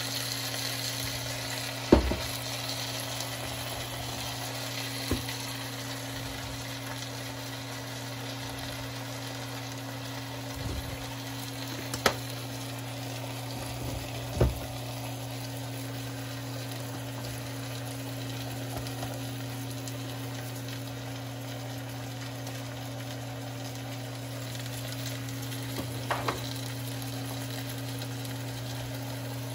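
Sliced chicken breast and onion sizzling steadily in a frying pan as the sauce is added and stirred in. Underneath runs a steady low hum, and a few sharp knocks come through.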